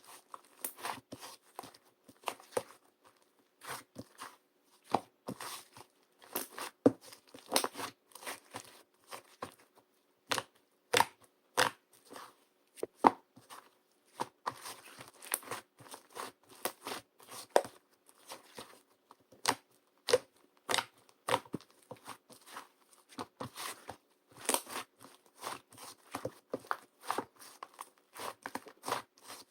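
Small objects handled close to the microphone: irregular sharp taps, clicks and crinkles, several a second, over a faint steady hum.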